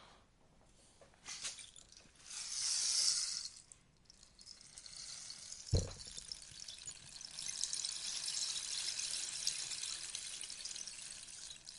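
Rainstick being tipped, its pellets trickling down inside the tube with a rain-like patter: two short cascades early on, a soft knock about six seconds in, then a longer, steady trickle.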